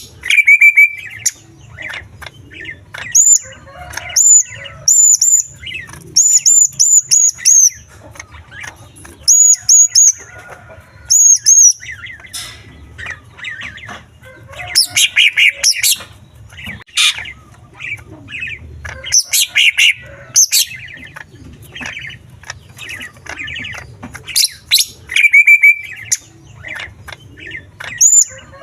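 Green leafbird (cucak ijo) singing loudly and continuously. Runs of short, high, repeated whistled notes alternate with harsher rapid chattering phrases, the song packed with mimicked calls of small birds.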